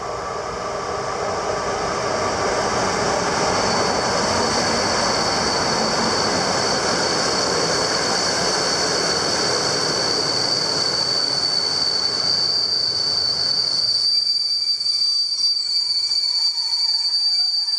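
Train passing at close range: rolling wheel noise, with a steady high-pitched wheel squeal on top. The rumble swells over the first few seconds and drops away sharply near the end, while the squeal continues a little longer before stopping.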